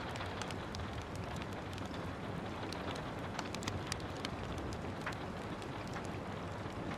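Steady rain with a wood fire crackling: an even hiss with a low rumble underneath, scattered with frequent sharp snaps and pops.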